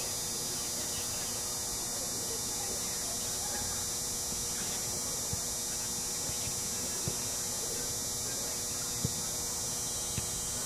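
Steady high-pitched hiss and a low hum throughout, with faint distant voices and a few soft knocks.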